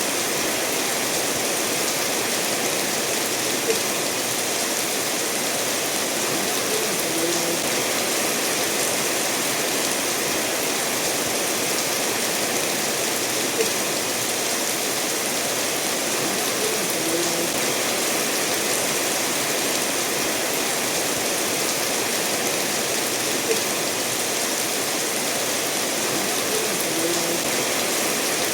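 Steady rainfall mixed with a stream running over stones, an even wash of water noise. Three faint single drops or ticks stand out, about ten seconds apart.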